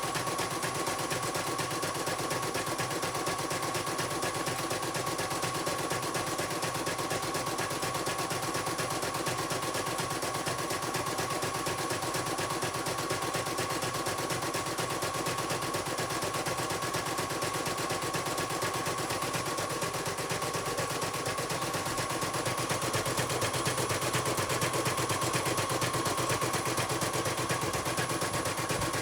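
Computerized embroidery machine stitching: a fast, steady run of needle strokes with a constant whine, getting a little louder near the end.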